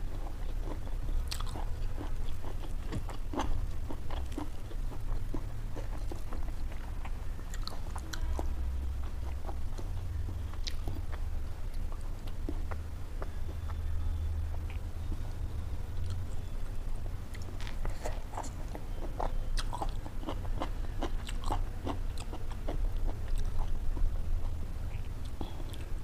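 A person chewing and biting food, with many sharp, irregular mouth clicks and small crunches that grow thicker in the last third, over a steady low hum.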